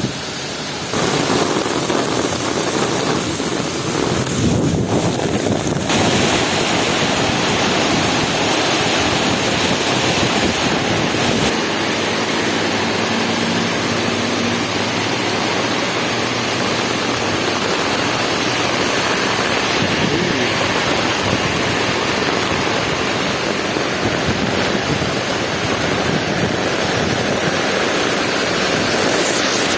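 Heavy rain pouring steadily in strong wind, a dense even hiss that gets a little louder about a second in.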